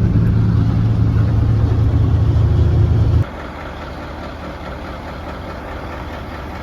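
Truck engine and road noise heard from inside the cab while driving on the highway: a loud steady engine drone that drops suddenly to a quieter, even rumble about three seconds in.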